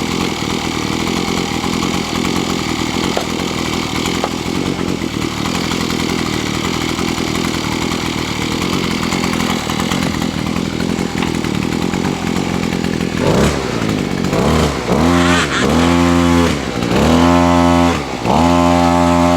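Engine driving a post-hole auger running steadily, then, about two-thirds of the way in, revving up and dropping back in several quick surges while the auger is stuck in the hole.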